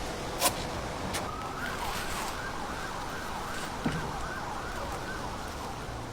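An emergency-vehicle siren wailing up and down about twice a second, heard under a steady hiss, starting about a second in and fading out near the end. Sharp clicks come about half a second in and again near four seconds.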